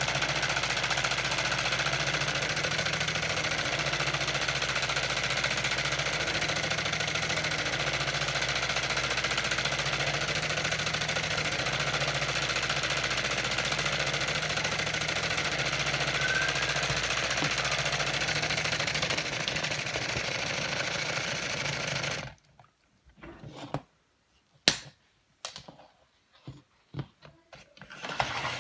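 Lego pneumatic inline two-cylinder engine running on compressed air: a steady hiss with a fast mechanical clatter. It cuts off suddenly several seconds before the end, followed by a few sharp clicks.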